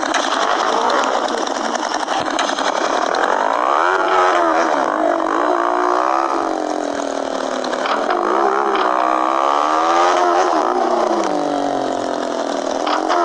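Motorcycle engine running under way, its pitch rising as it accelerates and dropping off as it slows, twice over.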